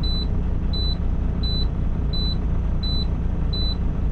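A semi truck's in-cab warning beeper sounds a short high beep about every 0.7 s, over the steady low rumble of the truck's diesel engine running. The beeping signals that the power divider (inter-axle differential lock) is engaged.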